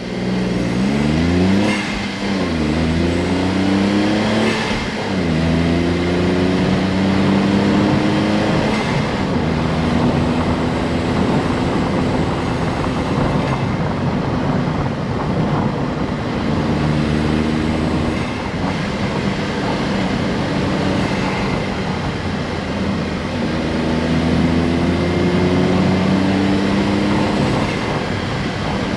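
Honda S660's small turbocharged three-cylinder engine accelerating hard, its pitch climbing and then dropping at an upshift about two seconds in and again about five seconds in. It then settles to a steady drone at cruising speed, with slight rises and falls in pitch.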